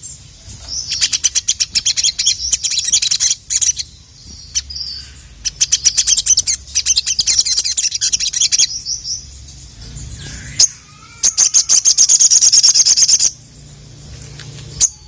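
Sogon (sogok ontong, the crimson sunbird) singing: three long, high, rapid chattering phrases of quick repeated notes, with short pauses between them.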